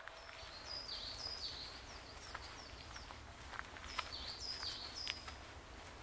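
A songbird singing: high, clear notes that slide downward, repeated in a short phrase about a second in and again about four seconds in. Beneath it runs a steady low background noise with a few faint ticks.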